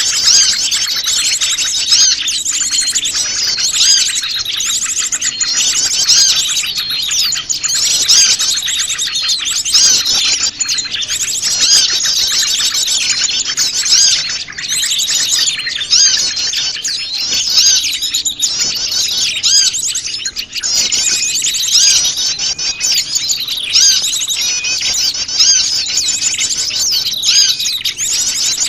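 A dense chorus of many small wild birds chirping and trilling at once, the calls overlapping without a break: a mixed small-bird lure recording meant to draw birds in.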